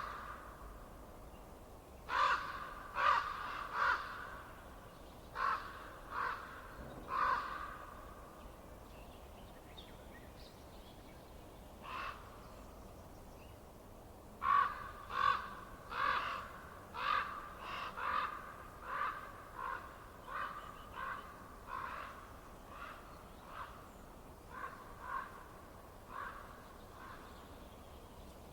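A bird calling over and over in short, pitched calls: a few in quick groups in the first half, then a long run of about fifteen calls in the second half that grows fainter toward the end. A faint steady hiss lies underneath.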